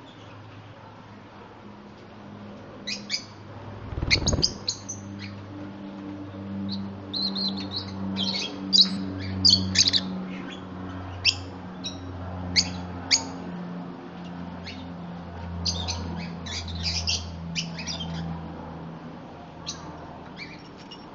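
Pet birds calling in many short, sharp chirps and squawks, densest in the middle, over a low steady hum, with a dull thud about four seconds in.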